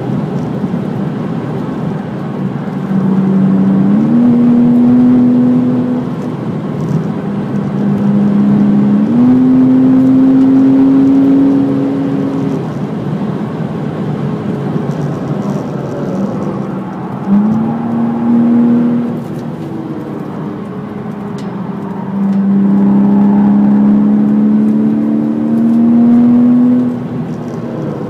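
Porsche Cayman S's flat-six engine pulling hard at speed, heard from inside the cabin over road and wind noise. Four loud pulls climb in pitch, with quieter stretches between them.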